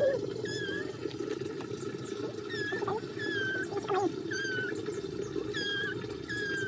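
A bird peeping over and over, short wavering calls about once a second, over a steady low background noise.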